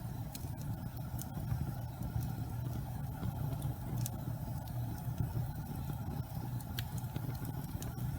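Wood fire burning in a fireplace: a steady low rumble of the flames with sparse sharp crackles and pops every second or two.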